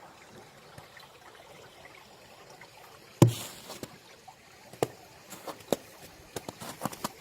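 Faint steady trickle of a valley stream with spring meltwater. About three seconds in, a loud knock, then irregular crunching steps and crackles, like footsteps on dry leaves and stones.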